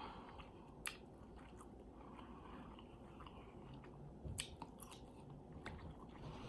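Faint close-miked chewing of food, with a few short sharp mouth clicks scattered through.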